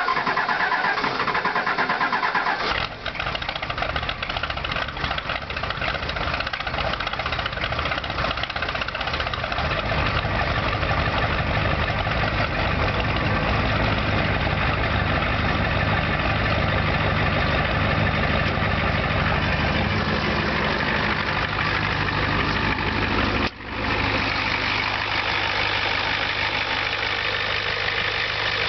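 Ford 7.3 IDI non-turbo diesel V8 cold-starting at about 25°F without its block heater plugged in: the starter cranks for about three seconds, the engine catches and settles into a steady, ticking diesel idle, picked up close to the exhaust. It starts readily.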